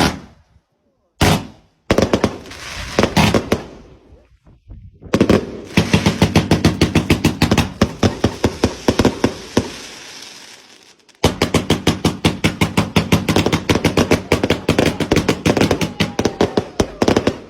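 Fireworks going off in fast strings of sharp bangs: a few separate cracks in the first seconds, then a long rapid barrage, a short break about eleven seconds in, and a second rapid barrage.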